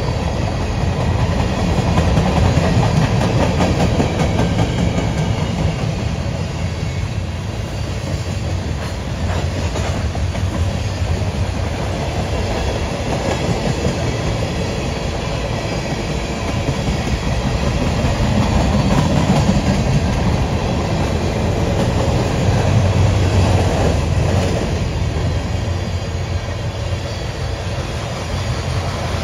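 Freight cars of a mixed manifest train (covered hoppers, tank cars and boxcars) rolling past close by: a steady rumble of steel wheels on the rails with a light clicking over the rail joints, swelling a little now and then.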